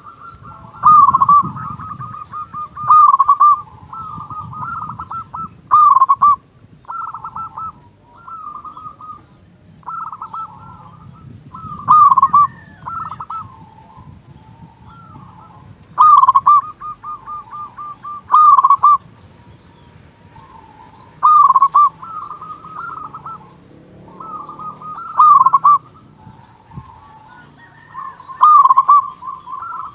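Zebra dove (perkutut) cooing: repeated phrases, each a sharp note running into a fast rolling trill, with loud phrases every two to four seconds and quieter ones between them.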